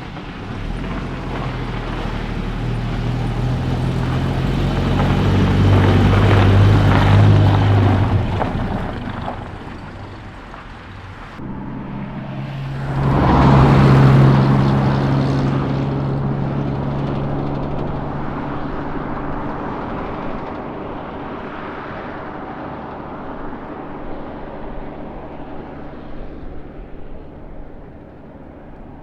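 A 1970 Chevrolet C10 pickup driving on the road: the engine builds up and eases off, then surges again about halfway through and slowly fades.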